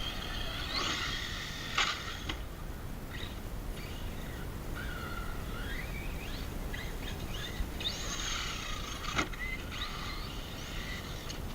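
Whine of an RC truck's brushless motor at a distance, rising and falling in pitch in repeated bursts as it accelerates and lets off. There are two sharp knocks, about two seconds in and about nine seconds in.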